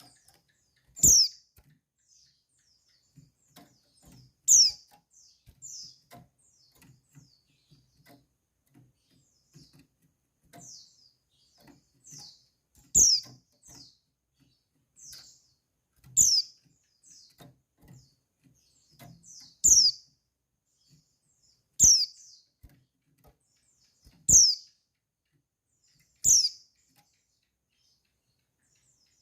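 Female white-eye (pleci) calling: short, high calls that slide quickly down in pitch, repeated every two to three seconds, with soft taps and rustles between them.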